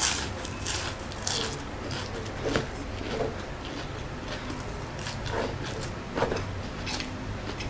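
Close-up eating sounds: biting and chewing crisp fried lumpia shanghai spring rolls, with irregular crunches spaced a second or so apart.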